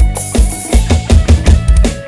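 Live band music from a Thai rot hae mobile sound-truck band, amplified over a loud PA: a drum kit keeps a steady kick-drum beat under bass, then plays a quick fill of rapid drum hits about halfway through.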